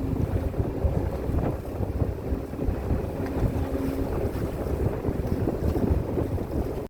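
Wind buffeting the microphone over the low, steady drone of a cruise boat's engine, with a faint hum running through it.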